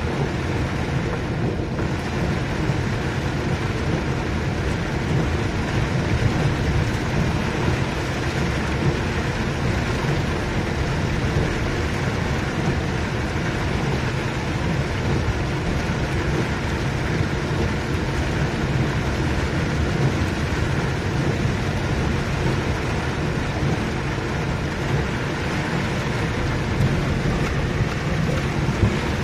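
Heavy rain pouring steadily, a dense even hiss over a strong low rumble.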